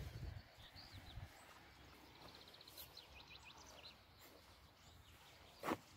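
Faint birdsong over quiet outdoor ambience: a few high chirps and a short rapid trill. A low rumble fades out in the first second, and a single sharp knock comes near the end.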